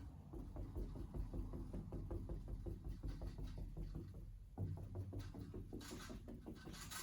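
Paintbrush working thinned acrylic paint on a canvas: faint, quick dabbing strokes, several a second, with a brief hissy brush swish near the end.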